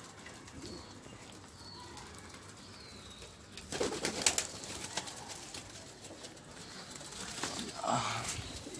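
Domestic pigeons cooing, with a few brief bursts of wing flapping about four seconds in.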